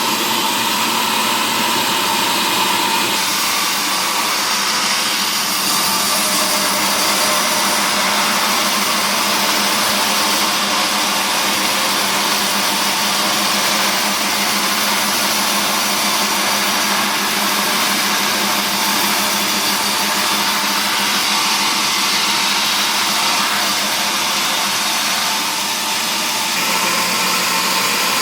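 Sawmill machinery running steadily: a loud, continuous mechanical noise that changes character about three seconds in and again near the end.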